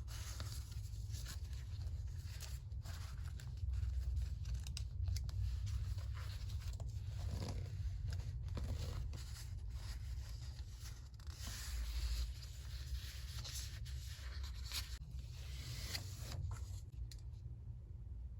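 Close-up paper sounds of collage work: paper being handled, rustling and scraping irregularly, over a steady low rumble. The paper noise falls away about a second before the end.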